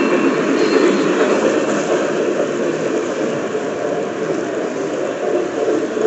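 Model trains running on a layout's track: a steady rolling rumble of wheels and motors.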